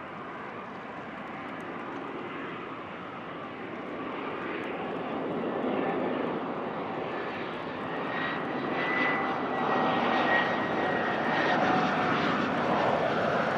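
Business jet's turbofan engines growing steadily louder as it comes in to land, a rushing roar with a high whine rising out of it in the second half.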